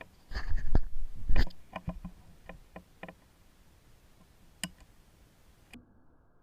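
Close handling noises: a few rustling scrapes with dull knocks in the first second and a half, then scattered sharp clicks that thin out, the last one a little before five seconds in.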